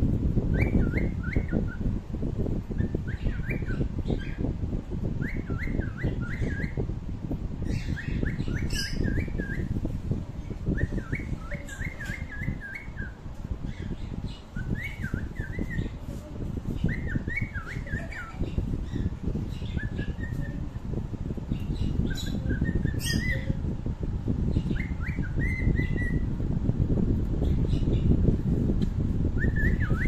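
A bird chirping in quick runs of short rising notes, a cluster every second or two, over a loud low rumble.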